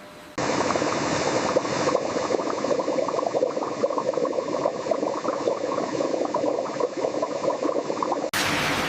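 Liquid gushing and bubbling: a dense, crackling, watery noise that starts abruptly and cuts off near the end, where a smoother rushing noise takes over, as freshly extracted coconut juice flows in processing.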